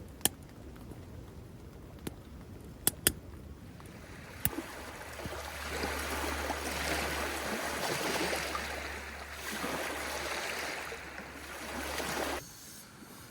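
Wind and rain beating on the tent: a few sharp taps in the first seconds, then from about five seconds in a loud rush of gusting rain with a low wind rumble under it, which cuts off suddenly near the end.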